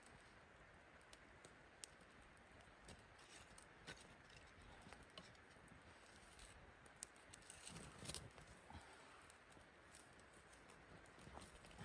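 Near silence: a faint even hiss with scattered faint ticks and clicks, and a short cluster of louder clicks with a soft rustle about eight seconds in.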